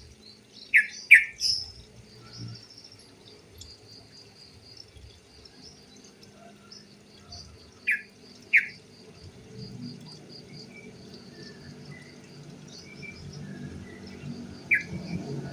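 Yellow-vented bulbul (trucuk) giving short, sharp, loud call notes in pairs, three times. A steady, high, evenly pulsed chirping runs in the background.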